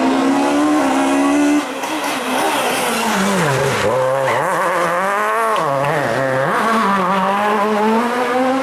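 Rally car engine at high revs that drops abruptly about a second and a half in. The revs then rise and fall in quick swings before pulling up steadily again near the end.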